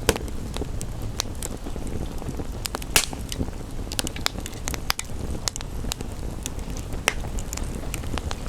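Wood fire crackling with irregular sharp pops, the loudest right at the start and about three seconds in, over a steady hiss of rain and a low rumble.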